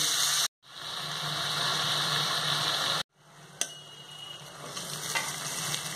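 Masala paste sizzling as it fries in mustard oil in a karhai over a very low flame, cooked until the oil begins to separate, with a low steady hum underneath. The sound cuts out abruptly twice, about half a second in and about three seconds in, and comes back quieter after the second cut, with a single click soon after.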